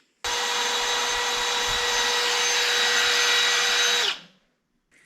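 A small motor-driven tool running at a steady high speed with a fixed whine for about four seconds, then winding down with a falling pitch.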